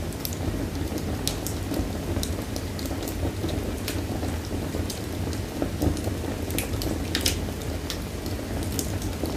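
Wood fire in a fireplace burning steadily, with irregular sharp crackles and pops over a low, steady rumble of the flames.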